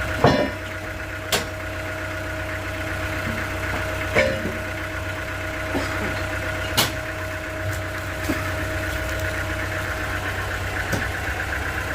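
Sawmill machinery running steadily with a constant hum, broken by several sharp knocks, the loudest just after the start.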